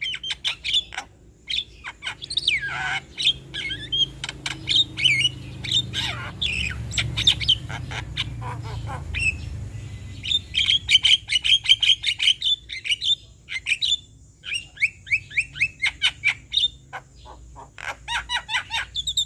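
Male Javan myna (jalak kebo) singing its chattery song: fast runs of sharp repeated notes mixed with squawks and whistled calls. A low rumble sits underneath through the middle.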